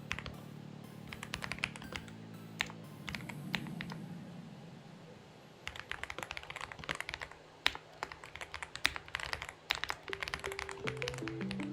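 Typing on a Xinmeng X98 mechanical keyboard: scattered keystrokes, a pause of a second or so, then a fast, dense run of keystrokes. Background music plays underneath.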